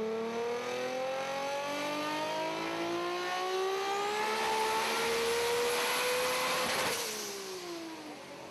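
Nissan Skyline GT-R R34 accelerating hard, its engine note rising steadily in pitch as it approaches and gets louder. About seven seconds in, it passes and the pitch drops as it moves away.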